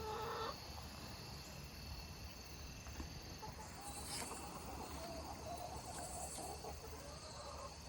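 Crickets chirring steadily and faintly, with a constant high-pitched tone.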